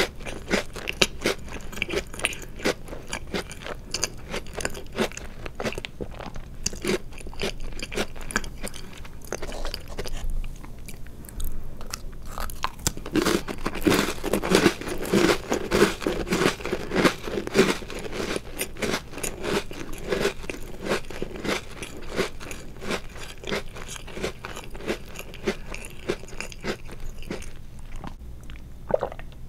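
Close-miked crunching and chewing of chocolate-covered Oreo cookies: a dense run of crisp crunches, easing off for a moment about ten seconds in and busiest a few seconds after.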